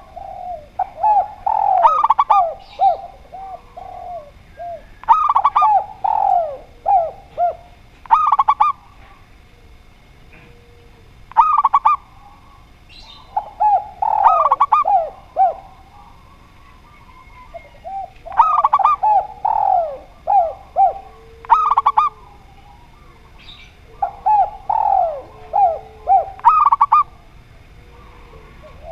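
Spotted dove and zebra dove cooing. Phrases of quick, bouncing coo notes repeat every two to three seconds, with brief pauses between bouts.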